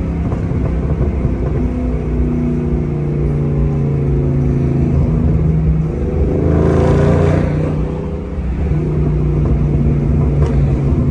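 Supercharged 4.6-litre V8 of a 2003–04 Ford Mustang SVT Cobra, heard from inside the cabin while driving. It runs at a steady note, with a brief rush of noise about six and a half seconds in and a short dip in level around eight seconds.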